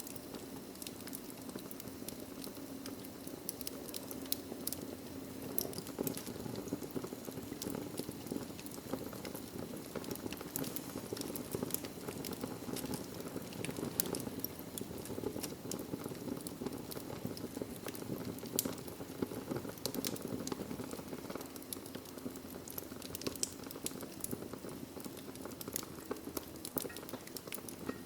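Wood logs burning in a fireplace: a steady low rush of flame with many sharp crackles and pops.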